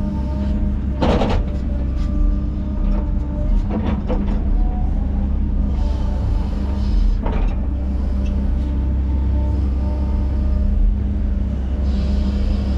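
Bulldozer's diesel engine running steadily under load while pushing dirt, with a few sharp knocks from the machine about a second, three and a half seconds and seven seconds in.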